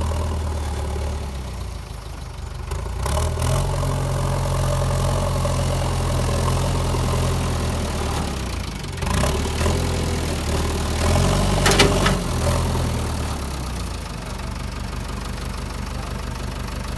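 JCB 3DX backhoe loader's diesel engine running, its note shifting a few times, with a brief clatter about twelve seconds in.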